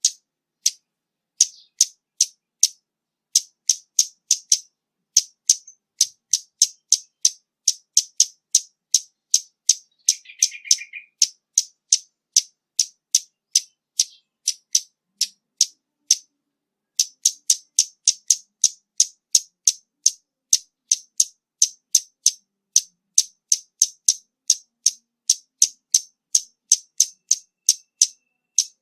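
Scarlet-backed flowerpecker calling: a long series of sharp, high ticks, about two a second, with a brief pause near the middle. A short, lower buzzy note sounds once about ten seconds in.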